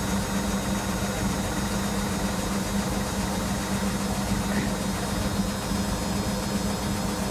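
Electra AWF683 front-loading washing machine spinning its drum, a steady motor hum with one even tone throughout. It is working up through a spin on a load of towels, a drum that often stays unbalanced at low speed.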